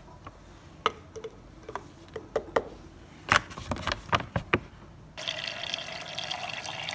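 Scattered light clicks and knocks of handling, then from about five seconds in a steady pour of liquid into a cup or container.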